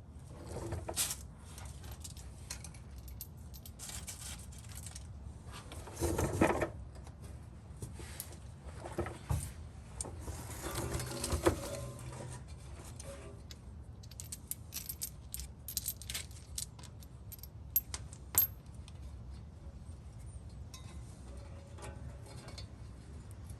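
Irregular metallic clinks and short rattles of bolts, nuts and hand tools as the exhaust test pipe's flange bolts are fitted and started. The loudest clatters come about six, eleven and eighteen seconds in.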